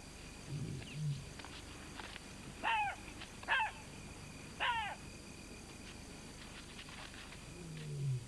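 Scavengers at a carcass at night: low grunts near the start and again near the end, and three short, high, falling yelps in the middle. A steady high-pitched night-insect drone runs under them.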